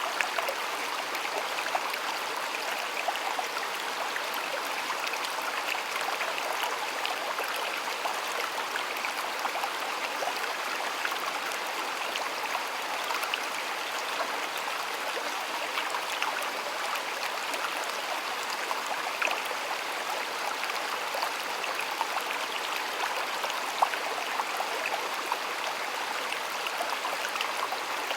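Stream water flowing and burbling steadily, with small splashes and droplet ticks scattered through it.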